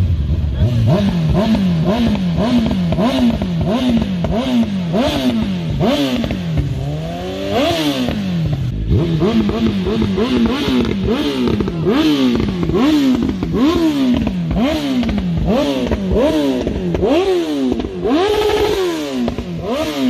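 An engine revved over and over in quick throttle blips, its pitch climbing and dropping back roughly every half second to a second, with a few longer, higher revs.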